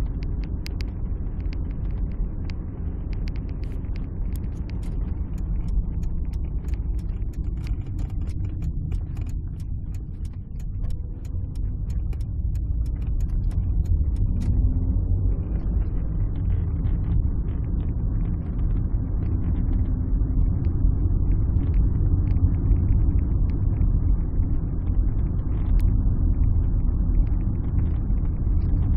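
Alfa Romeo 156 driving, heard from inside the cabin: a steady low rumble of engine and road that grows louder about halfway through, with scattered light clicks in the first half.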